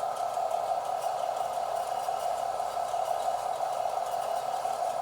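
Sound unit of a model RC conveyor belt playing its machinery-running effect through a small speaker: a steady, even noise that holds on after the belt is switched off, because the unit takes several seconds to shut its sound off.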